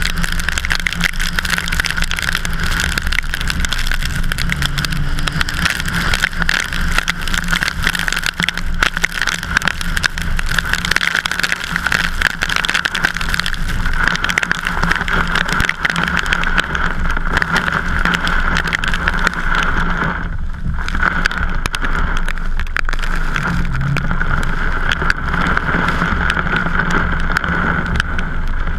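Steady, loud rushing noise of a vehicle driving, with wind buffeting the camera microphone and a constant hum band running through it. It drops away briefly for a moment about twenty seconds in.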